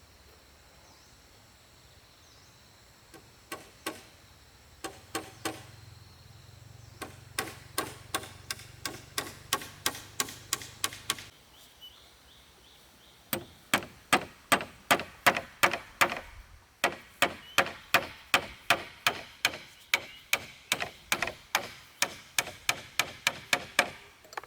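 Hammer driving nails into wooden formwork, with steady runs of sharp blows at about three a second and a short pause near the middle.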